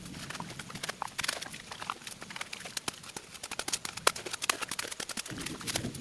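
Raindrops falling in a rain shower, heard as dense, irregular ticks and taps with no steady rhythm.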